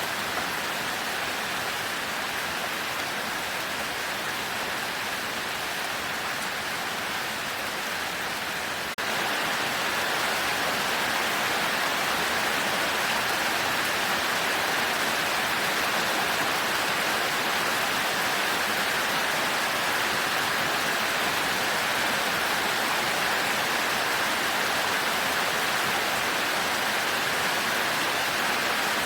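Heavy, steady rain, a dense even hiss. About nine seconds in it dips for an instant and comes back a little louder.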